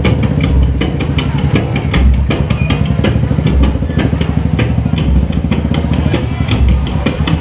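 A motorcycle engine idling close by, running steadily with a rapid clatter over it.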